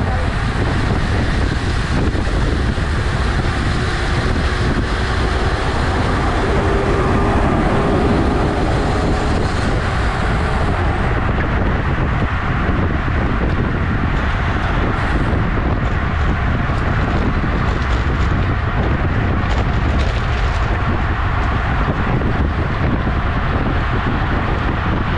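Steady wind rush buffeting the microphone, with road and tyre noise, while riding a road bicycle at speed.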